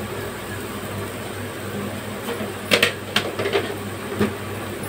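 Onion-and-spice masala frying quietly in a pan over a steady low hum, with a few light clicks and taps about halfway through and near the end.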